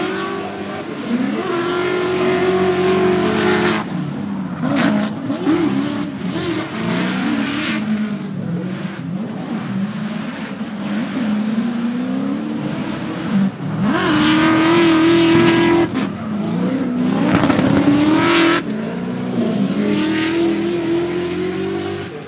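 Drift car's engine revving and falling off again and again, with tyres squealing. The loudest screech comes about two-thirds of the way through, in two stretches.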